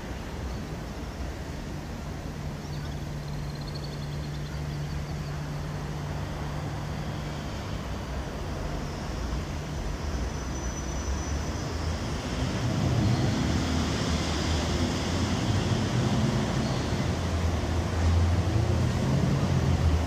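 Train at a railway station: a steady hum for the first several seconds, then from about twelve seconds in the low rumble of a train moving past or into the platform grows louder.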